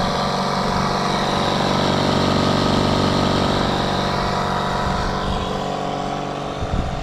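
Small electric air compressor of a portable jump-starter pack running steadily, a constant motor drone.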